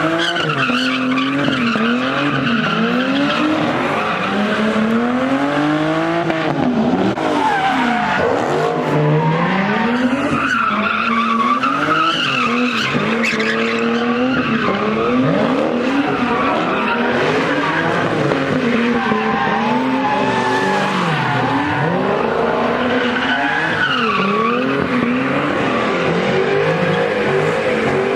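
A car engine revving up and down over and over, with tyres squealing and skidding as the wheels spin.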